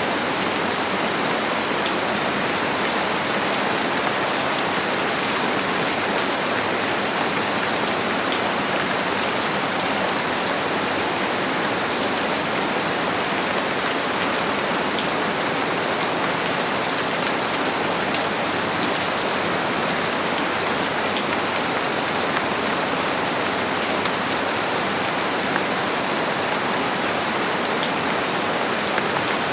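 Steady rain falling on a surface, an even hiss with many small drop ticks, unchanging throughout.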